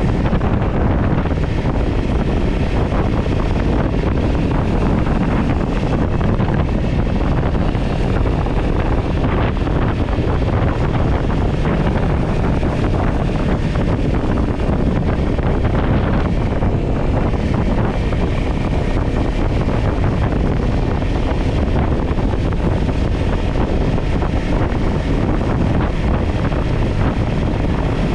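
Wind rushing and buffeting over an action camera's microphone on a moving motorcycle, with a Kawasaki Ninja 400's parallel-twin engine running underneath. Steady and loud, with no gear changes or sudden events.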